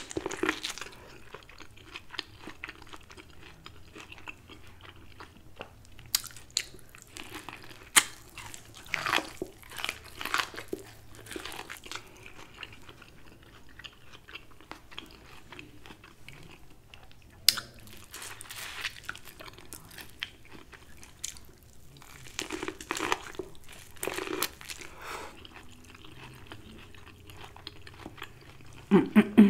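A person biting kernels off corn on the cob and chewing them close to the microphone: irregular wet chewing with crisp crunches, and a few sharp clicks now and then.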